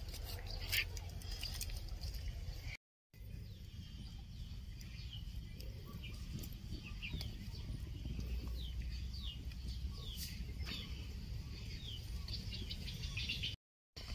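Small birds chirping: short falling chirps that repeat many times over a low rumble. Sound drops out briefly about three seconds in, and a few sharp clicks come before that.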